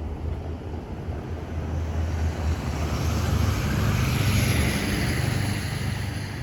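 Motor traffic: a steady low rumble, with a passing vehicle that swells about three seconds in and fades near the end.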